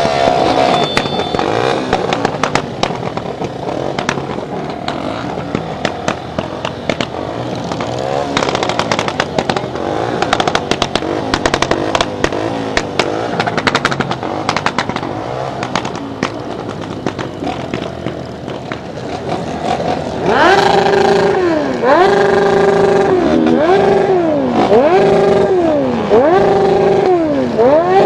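Several motorcycle engines running and passing together. About two-thirds of the way through, one motorcycle engine is revved hard, its pitch rising and falling about once a second.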